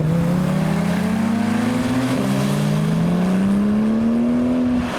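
Porsche 911 flat-six engine accelerating hard, its pitch climbing steadily through the revs, with an upshift about two seconds in and another near the end.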